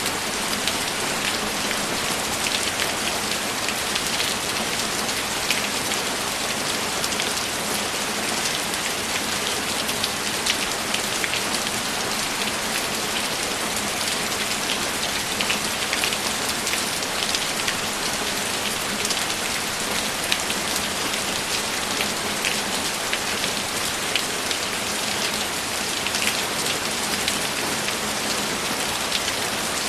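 Steady heavy rain: a constant hiss of rainfall with many individual drops ticking through it.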